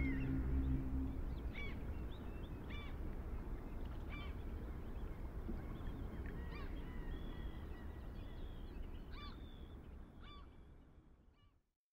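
Short bird calls repeating every second or so over a steady low outdoor hiss, with the last sustained chord of a choral piece dying away in the first second. Everything fades out near the end.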